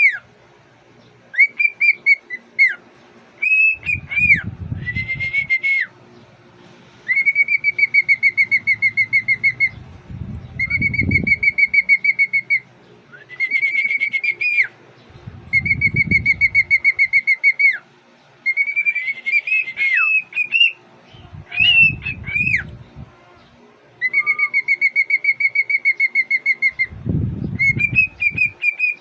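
A young cockatiel whistling its song, a bit off-key. Long phrases of quick, even warbling on one pitch alternate with short rising and falling whistles, with pauses between phrases.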